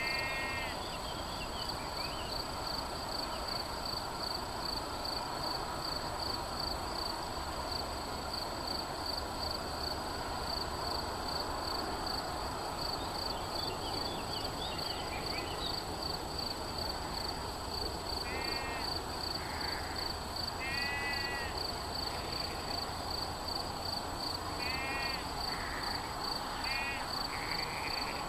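Outdoor field ambience: a steady, fast-pulsing insect chirr over a constant background hiss, with short bird calls at the start and then several times more in the second half.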